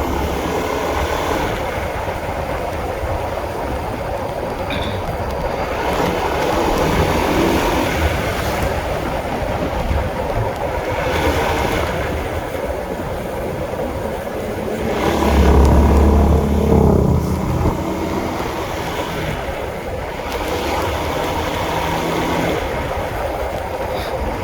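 Honda CB150R motorcycle being ridden, its single-cylinder engine running under a steady wash of wind noise on the microphone. A louder low rumble swells about 15 seconds in.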